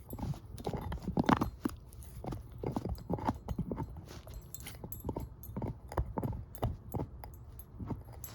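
Shepherd-mix dog chewing a bone, with irregular crunches and knocks from her teeth on the bone, one or two a second, the loudest a little over a second in.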